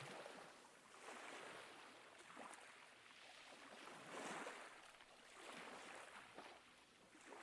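Faint ocean surf: waves washing in and drawing back in slow surges, swelling about a second in, around four seconds in and again near six seconds.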